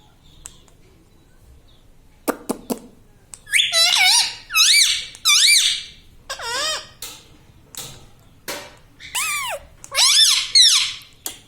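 Rose-ringed (ring-neck) parakeet calling: a string of shrill, squeaky calls, each sweeping up and then down in pitch. The calls come in quick clusters after about two seconds of quiet, then again near the end.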